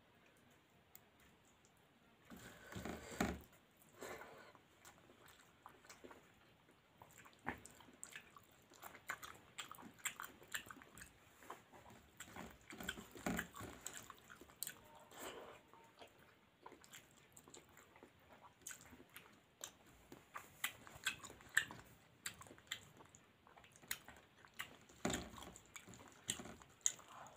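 A person chewing a mouthful of rice and curry, eaten by hand, with many short wet mouth clicks and smacks in an uneven rhythm. There are louder stretches about two to three seconds in and again near the end.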